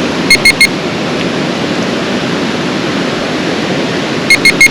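A metal detector beeping a coin signal: three short, identical high beeps about a second in, and the same triple beep again near the end, over a steady rush of flowing water.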